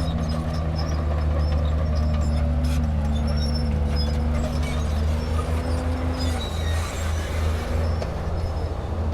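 Diesel engine of heavy earthmoving machinery running steadily. It is a low drone with a higher tone above it that shifts slightly in pitch and drops out about six and a half seconds in.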